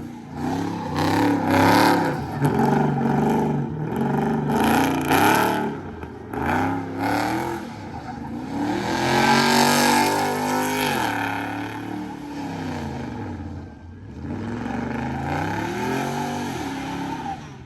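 Car V8 engine revved repeatedly, pitch climbing and dropping back about five times, with one longer, louder rev in the middle.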